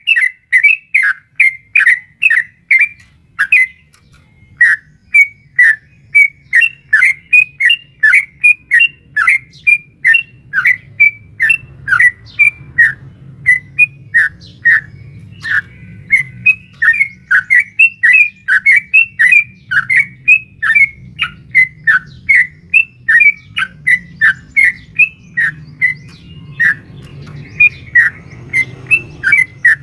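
Yellow-vented bulbul (trucukan) singing a long, rapid run of short chirping notes, about two to three a second, with a brief pause about four seconds in. It is a lure recording meant to set off other bulbuls, presented by the uploader as a female calling a male.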